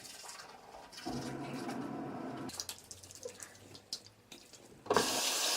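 Tap water running into a sink, starting strongly about five seconds in, with faint clicks and handling sounds before it.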